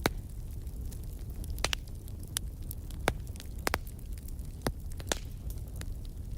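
Campfire crackling: sharp, irregular pops and snaps from the burning wood, some in quick pairs, over a steady low rumble.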